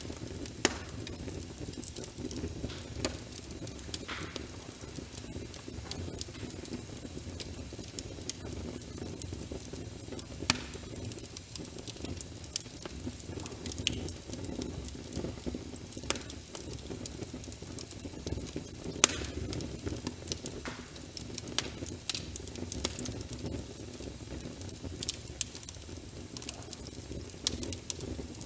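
Wood fire crackling in a fireplace, with irregular sharp pops and snaps, over a steady patter of rain.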